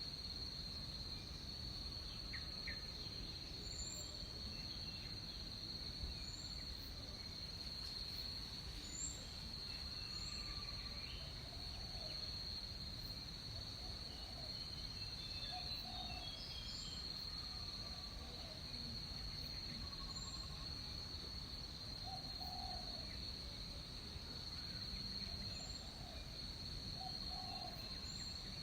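Tropical rainforest ambience at dawn. A steady, high-pitched insect drone runs under short, high bird chirps that come every second or two, and soft low bird calls repeat at irregular intervals.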